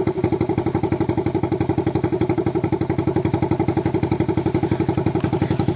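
Honda TRX90's 86cc four-stroke single-cylinder engine idling steadily with no muffler, only a bare exhaust tip, a fast even putter of loud exhaust pulses.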